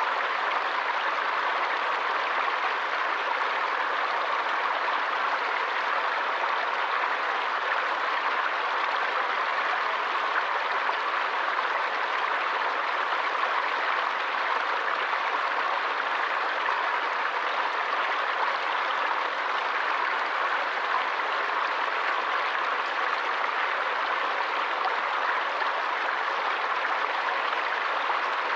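Stream water rushing steadily, an even, unbroken sound with no pauses.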